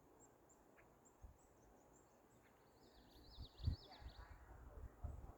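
Quiet outdoor ambience with faint, high repeated chirps. A short burst of quick bird chirping comes about three seconds in, and a few low thumps follow.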